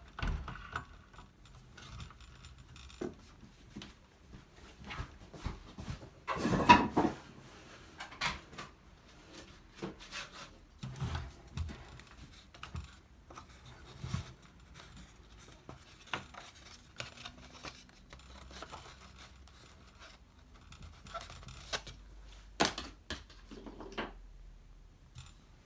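Hand-handling noises of small tool parts: scattered light clicks and knocks, with a longer scraping rustle about seven seconds in and a sharper knock near the end.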